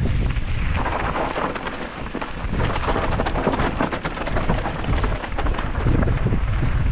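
Mountain bike tyres crackling and crunching over loose ground at speed during a downhill race, with wind buffeting the camera microphone. The wind rumble eases for a couple of seconds about a second in, while the crackle runs on.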